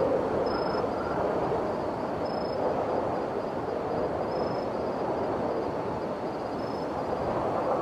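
Steady rushing wind noise from blizzard winds, rising and falling slightly in strength.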